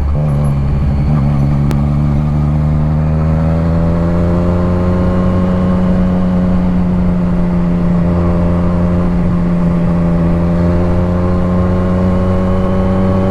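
Motorcycle engine running steadily under way, its pitch rising gently over the first few seconds and then holding even.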